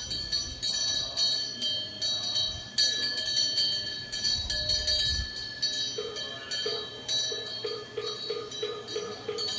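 Korean temple eave wind-bell (pungyeong) tinkling as the wind swings its clapper, struck again and again at uneven intervals, each strike leaving a lingering high ring.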